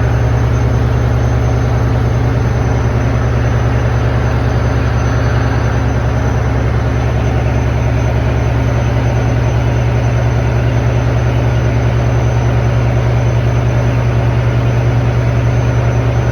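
Large ship's diesel engine running steadily, a deep, even drone with a fast, regular pulsing.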